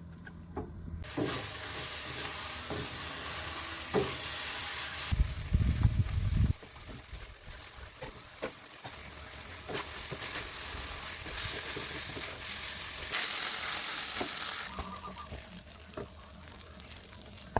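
A chorus of insects shrilling steadily, starting about a second in, with wavering high bands. A brief low rumble sounds near the middle, and there are a few small clicks.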